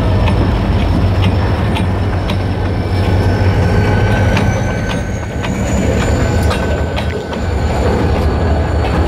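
Freight train rolling past with a steady low rumble. Its wheels click over the rail joints again and again, and a thin, high wheel squeal rises slightly in pitch about halfway through.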